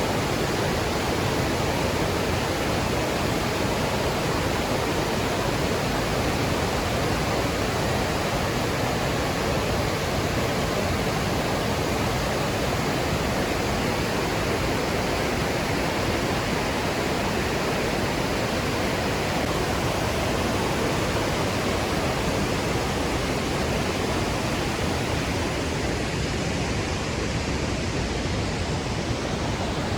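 Steady rushing of Låtefossen, a large twin waterfall, as a constant dense wash of falling water.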